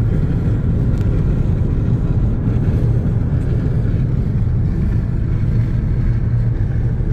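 Steady low rumble of a car driving along a highway, heard from inside the cabin: engine and road noise.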